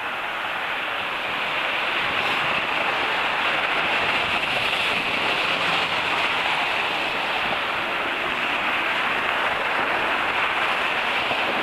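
Jet airliner flying low overhead: a steady broad roar that swells over the first couple of seconds and then holds.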